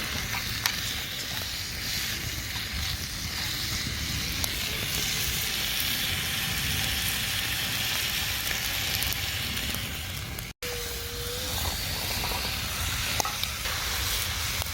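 Food sizzling and frying in a pan over a campfire: a steady hiss with scattered small pops, broken by a momentary dropout about two-thirds of the way through.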